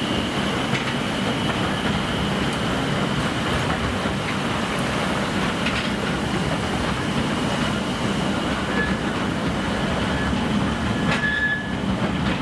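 Akasawa forest railway's narrow-gauge train running, heard from aboard: a steady rumble of wheels on rail with a thin, high wheel squeal that fades over the first half, and a brief higher squeal near the end.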